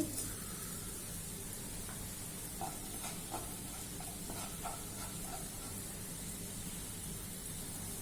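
Onion, garlic and chilli masala with whole cumin seeds sizzling steadily in a frying pan as the spices are fried down. A few faint knocks come between about two and a half and five and a half seconds in as it is stirred.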